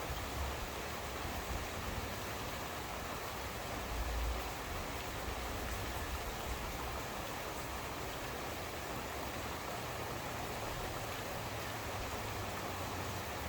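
Steady heavy rain falling, an even hiss, with a brief low rumble about four seconds in.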